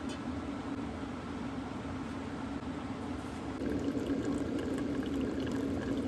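Water heating to a boil for coffee, bubbling over a steady low hum and growing louder a little past halfway.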